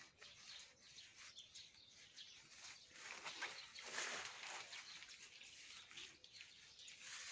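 Near silence outdoors, with faint bird chirps.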